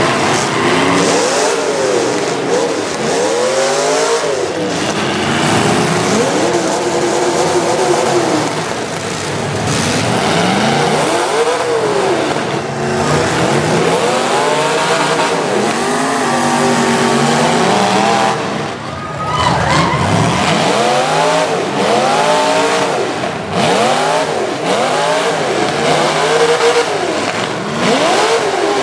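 Several full-size demolition derby cars' engines revving hard and dropping back again and again, their pitches rising and falling over one another without a break.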